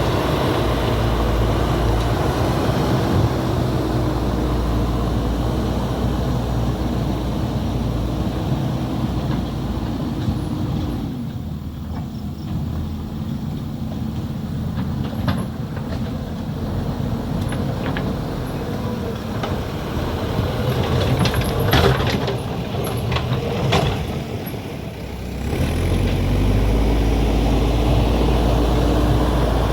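Diesel engine of heavy road-work machinery running hard, easing off to a quieter run about a third of the way in. Several sharp clattering knocks come past the middle, then the engine revs back up near the end.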